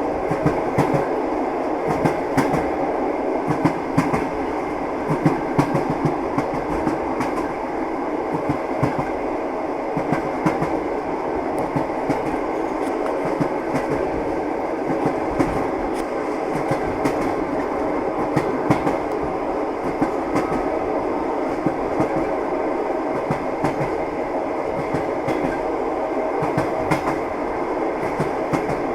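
Train wheels clattering over rail joints, a steady running rumble with irregular knocks on top, as heard from a moving railway carriage.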